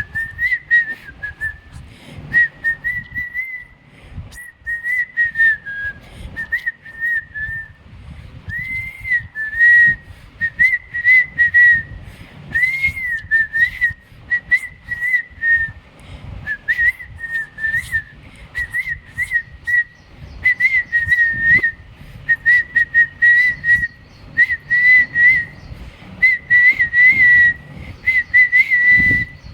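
A person whistling a tune in short phrases that waver up and down around one high pitch, with scattered clicks underneath.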